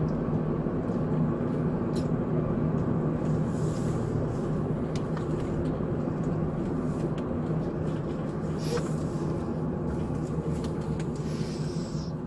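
Steady road and engine noise inside a moving police patrol car, with a constant low hum and a few faint clicks.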